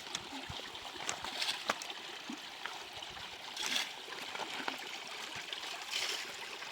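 Running water trickling steadily, with two brief louder splashes, one a little before four seconds in and one about six seconds in.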